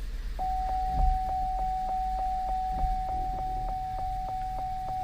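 The 2013 Cadillac CTS's warning chime sounding as one steady tone pulsing about three times a second, starting about half a second in, over the low rumble of the car running in gear on the lift. A dull thump comes about a second in.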